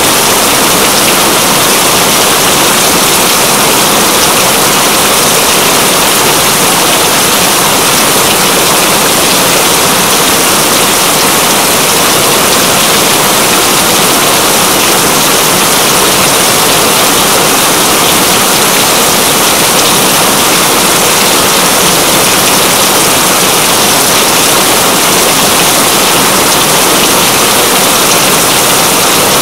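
Steady heavy rain, a loud, dense, even hiss with no break or change.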